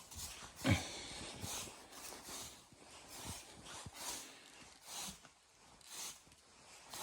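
Faint, evenly spaced crunching footsteps in snow, about one step a second, with one heavier step near the start.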